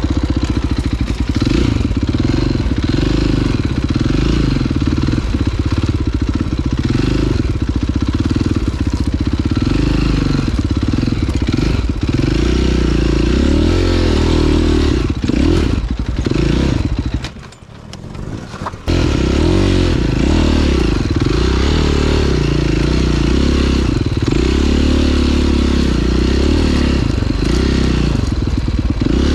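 KTM 530 EXC four-stroke single-cylinder dirt bike engine running on a trail ride, its pitch rising and falling with the throttle. About two-thirds of the way through the engine sound drops away for a moment, then comes back suddenly at full level.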